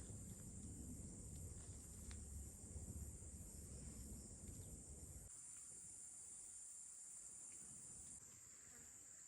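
Faint, steady high-pitched chorus of forest insects, swelling for a few seconds in the second half, over a low rumble that cuts off abruptly about halfway through.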